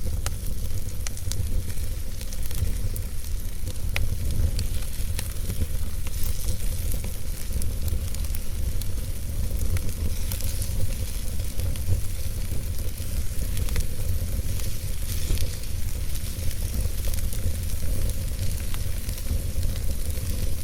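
Wood fire burning in a fireplace, crackling with scattered sharp pops over a steady low rumble and a soft hiss.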